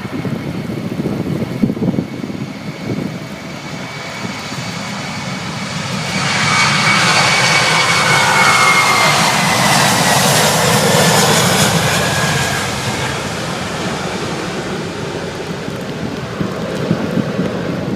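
Jet airliner passing by. Its engine noise swells about six seconds in and peaks with a whine that falls in pitch as it goes past, then fades. Steady wind rumbles on the microphone throughout.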